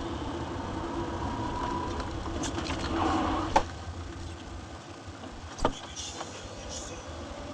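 Car engine and road noise heard from inside a moving car, with a sharp knock about three and a half seconds in and another near six seconds.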